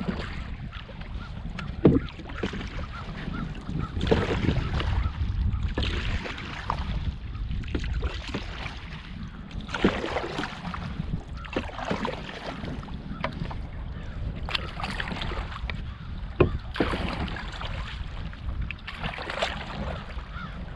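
Canoe being paddled: swishing paddle strokes in the water about every two seconds, with a couple of sharp knocks, over a steady rumble of wind on the microphone.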